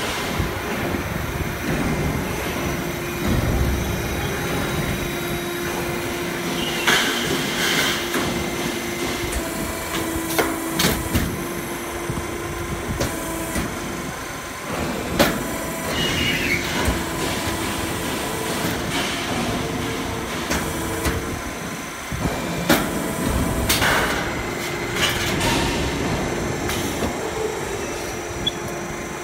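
Automatic HVAC duct production line running: a steady mechanical hum and whine from the sheet-metal machinery, broken by irregular sharp metal clanks and bangs as the machines work.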